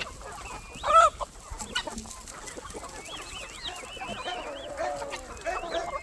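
A flock of chickens clucking and calling all around, many birds at once, with one loud squawk about a second in.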